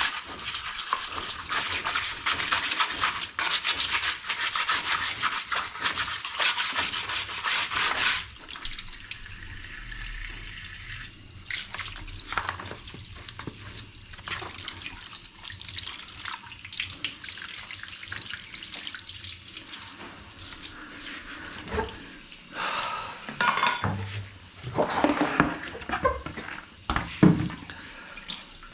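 A brush scrubbing a plastic washing-machine part in quick rubbing strokes for about eight seconds. Then quieter handling with water and scattered knocks.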